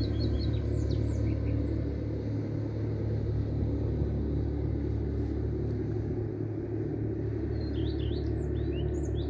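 Steady low drone of a motorboat engine out on the water. A small bird chirps a few times in the first second and again near the end.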